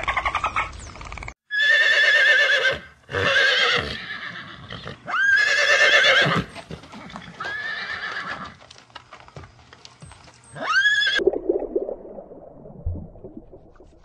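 Dolphin clicks and whistles for about the first second, then a horse whinnying five times, each neigh loud, high and quavering. Near the end comes a softer, lower call.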